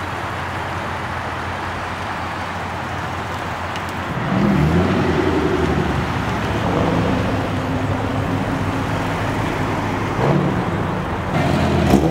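Nissan 370Z sports cars driving off one after another, their 3.7-litre V6 engines heard through the exhaust. A steady wash of traffic noise comes first; about four seconds in, a car accelerates with a rising engine note, and another revs near the end.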